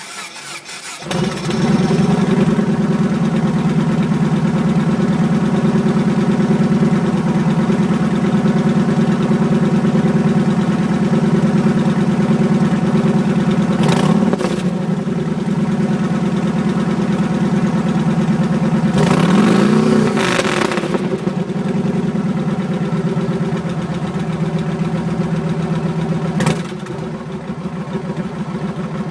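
Yamaha Road Star Warrior's air-cooled V-twin, on a custom exhaust, starting up about a second in and then idling steadily. It is blipped briefly near the middle and revved up and back down about two-thirds through, then settles to a quieter idle near the end.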